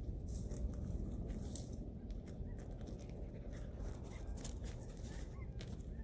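A series of short bird calls, starting about halfway in and coming several times a second or so, over a steady low rumble of wind on the microphone.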